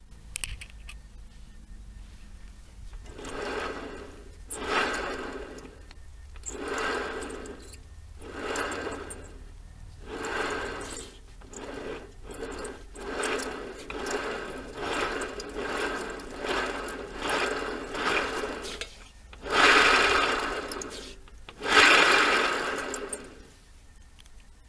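Rear wheel of a scooter with a Yamaha Jog-type engine turned by hand in repeated strokes, each one bringing a rumbling, rattling noise from the rear end: the abnormal noise being traced as a fault. About a dozen strokes, the last two louder.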